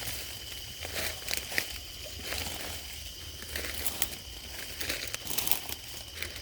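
Footsteps crunching and crackling through dry leaf litter, in irregular steps.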